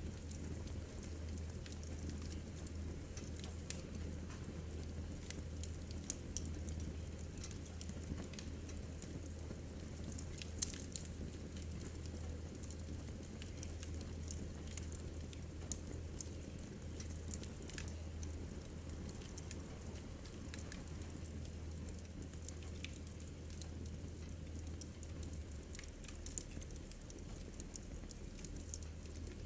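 Wood fire crackling in a fireplace: scattered sharp pops and ticks over a steady low hum.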